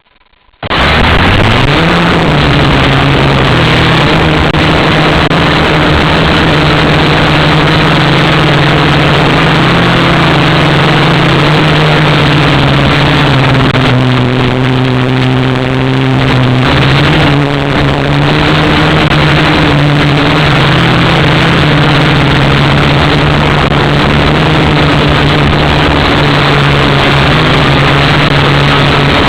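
Syma X8W quadcopter's motors and propellers spinning up, then running with a loud steady buzz. The pitch shifts up and down around the middle as the throttle changes.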